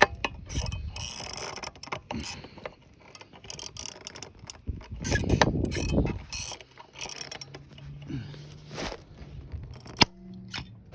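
Hand-squeezed pop-rivet gun being pumped, its handles and jaws clicking in irregular strokes as it pulls aluminium pop rivets into a steel muffler end cap. There is one sharp crack near the end.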